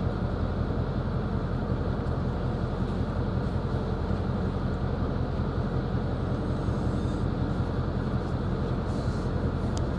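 Steady road and engine noise of a moving car, heard from inside the cabin: an even, low-pitched noise with no changes.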